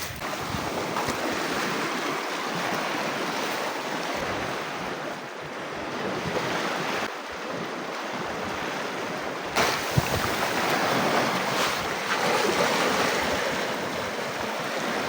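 Sea surf washing onto the shore: a steady rush of waves that swells and eases, with a brief tap about ten seconds in.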